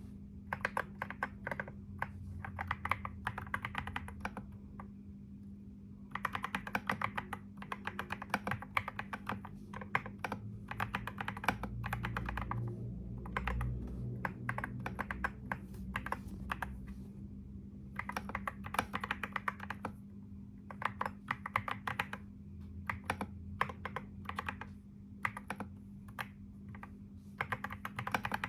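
Typing on a computer keyboard: quick runs of key clicks with a short pause about five seconds in, over a steady low hum.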